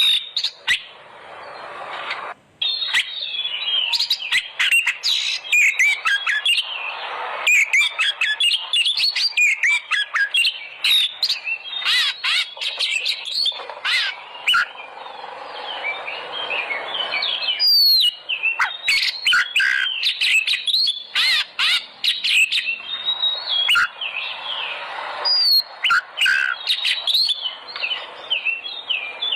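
Oriental magpie-robin (kacer) singing nonstop: a rapid, varied stream of whistles and chirps broken by many sharp clicks. This is a lure song meant to set other magpie-robins singing.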